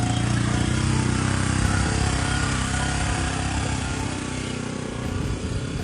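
A small motor vehicle's engine running steadily as it is driven, a little quieter towards the end.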